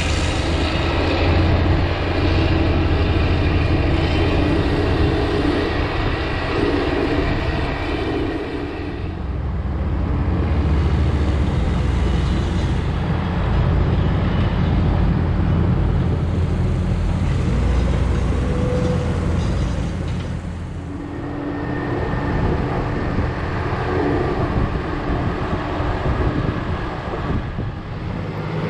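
Diesel engines of heavy farm machinery working a corn silage pile, running steadily under load and easing off briefly a few times.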